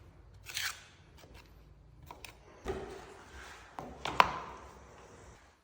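Walnut parquet boards being handled and knocked into place: a few wooden knocks and scrapes, the sharpest and loudest about four seconds in.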